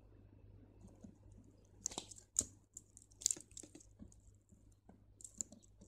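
Small crystal beads clicking and ticking against one another as a beading line is threaded back through them. There are a few sharp clicks, the loudest about two and three seconds in, over a low steady hum.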